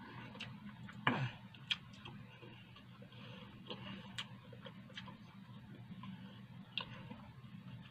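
A person chewing food with the mouth closed: wet mouth clicks and smacks at an uneven pace, about one every second or less. A stronger smack comes about a second in. A low steady hum runs underneath.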